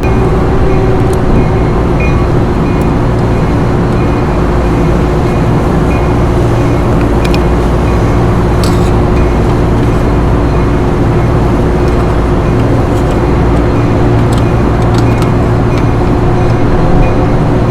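Loud, steady mechanical drone with a constant hum, typical of rooftop HVAC machinery running close by. A few faint clicks are heard over it.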